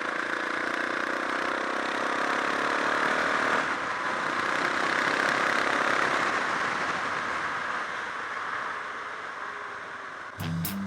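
Suzuki DR650's single-cylinder engine running under way, with a steady rush of noise over it; its pitch rises slowly for the first few seconds, then the sound changes about four seconds in. Music cuts in near the end.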